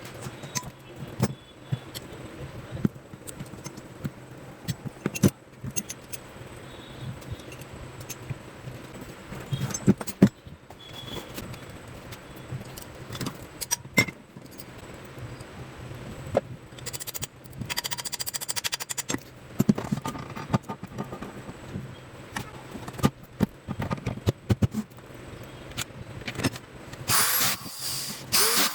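Metal parts and hand tools clicking, clinking and knocking irregularly while a marble cutter is taken apart and worked on, over a steady low hum.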